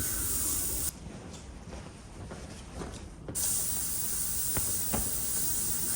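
Ultrasonic cleaner running with a steady high hiss. The hiss cuts out sharply about a second in and comes back about two seconds later. A few faint clicks of small parts being handled are heard.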